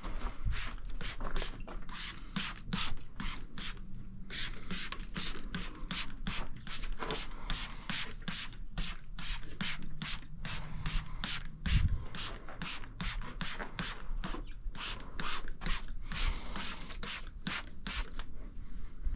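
Brisk, even brushing strokes, about two to three a second, as a stiff brush is worked over and over.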